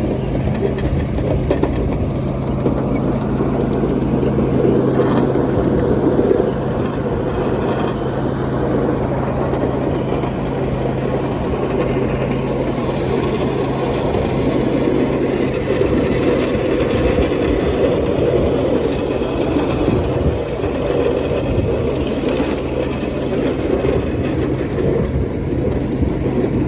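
A miniature ride-on train's engine running steadily, with a constant low hum under a rough churning rumble.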